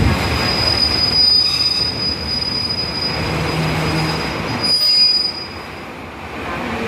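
Train wheels squealing against the rails: one steady high-pitched squeal over the rumble of the moving train, fading out about five seconds in as the noise drops.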